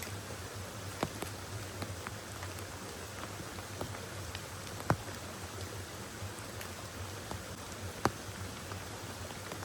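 Rain falling steadily, with scattered drops ticking sharply close by; three louder drops land about a second, five seconds and eight seconds in.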